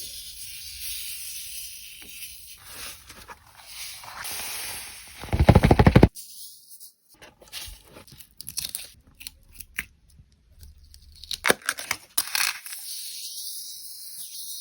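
Scratchy tearing and scraping of paper and sand worked by hand in sand-art making, with small clicks throughout. A loud rapid rattle comes about five seconds in.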